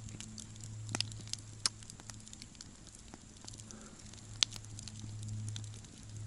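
Wood campfire crackling, with sharp irregular pops over a low steady hum.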